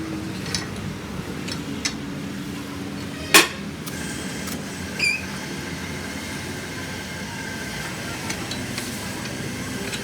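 Metal knocks and clinks over a steady low mechanical hum: one loud sharp knock with a short ring about a third of the way in, a brief ringing clink about halfway, and a few lighter ticks.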